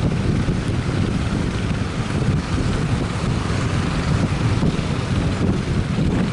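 Strong wind buffeting the microphone in an uneven low rumble, over a steady rush of sea noise.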